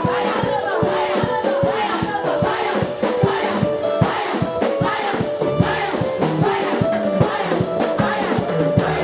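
Gospel praise music: a choir singing over a steady, fast percussive beat.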